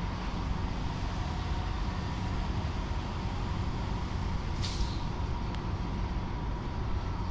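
Train running slowly, heard from on board: a steady low rumble, with a short hiss about two-thirds of the way through.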